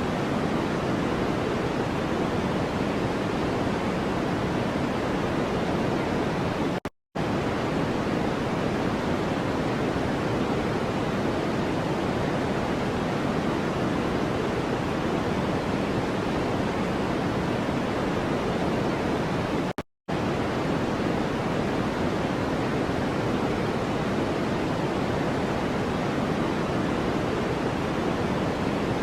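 Steady, even noise of a white-noise track, deeper in tone than a flat hiss, with no pitch or rhythm. It cuts out to silence for a split second twice, about seven seconds in and again about twenty seconds in.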